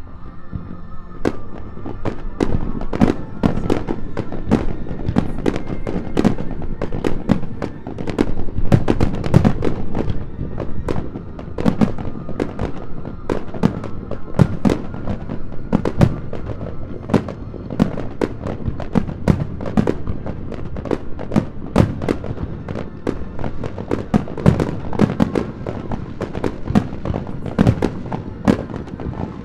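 Fireworks shells bursting in rapid succession, several sharp bangs a second, starting about a second in, with music playing underneath.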